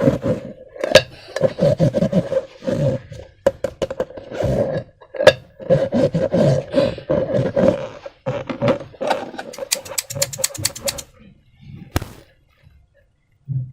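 Slime being squished and worked by hand: irregular wet squelches and sharp clicks, with a quick run of crackling pops around ten seconds in, then it goes quiet near the end.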